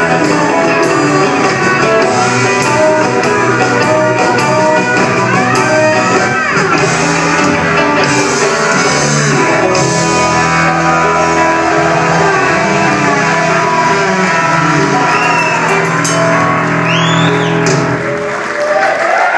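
Live rock band playing an instrumental passage with electric guitars, bass and drums, then stopping on a final chord near the end.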